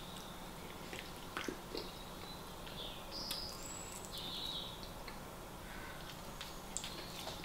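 A man chewing and eating food from a fork, with scattered small clicks and soft wet mouth sounds.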